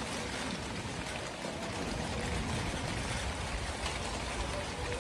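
Steady rain falling, an even hiss with water trickling and running off.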